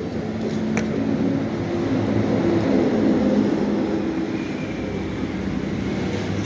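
Airplane passing overhead: a steady low rumble that swells toward the middle and then eases off.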